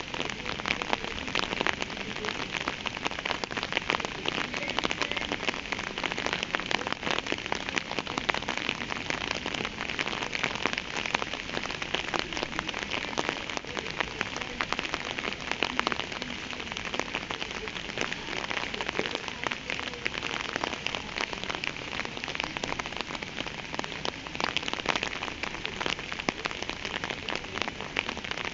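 Steady rain falling, with a dense, even scatter of individual drops striking a surface.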